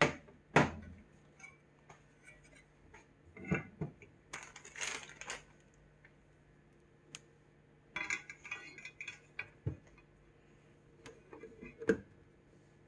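Small hard objects being handled and set down: scattered clicks, knocks and clinks, with a short rustle about five seconds in. The loudest knocks come right at the start, just after, and near the end.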